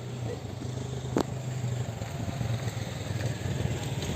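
Mountain bike rolling over rough trail: a steady low rumble with one sharp knock about a second in.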